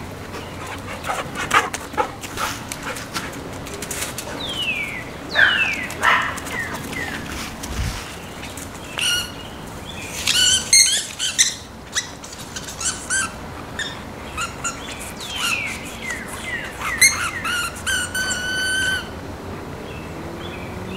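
Birds calling: several downward-sliding whistled notes and bursts of short repeated chirps, over scattered light clicks and knocks.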